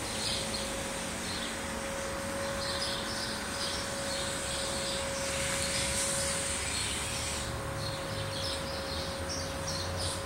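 Birds chirping in short clustered bursts, over a steady high hiss and a faint constant hum.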